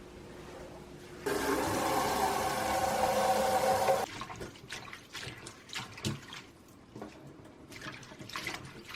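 Kitchen sink tap running hard into the sink for about three seconds, starting and stopping abruptly, followed by a few light knocks and clinks of things being handled.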